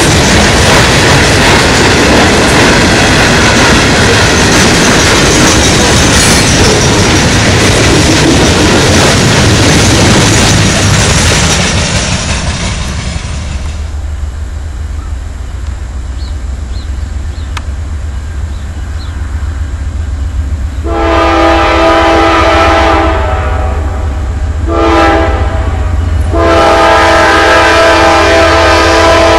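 Train passing close, a loud rumble with wheels clattering on the rails, that fades to a low rumble about twelve seconds in. Later a diesel locomotive's multi-note air horn sounds a long blast, a short one and another long one.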